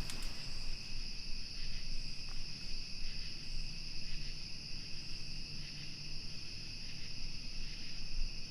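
Steady chorus of insects, a continuous high-pitched trill over a low rumble of outdoor background noise.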